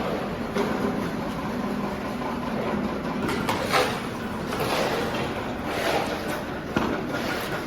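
Floor-removal scraper machine running with a steady motor hum, its blade rasping up flooring in louder surges several times in the second half.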